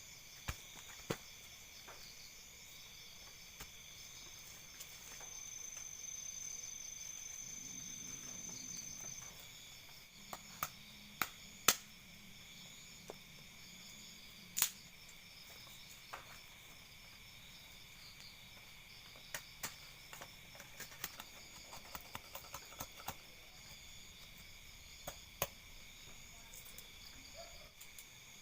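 A steady chorus of night insects, calling in several layered high-pitched bands, with scattered sharp clicks and pops throughout.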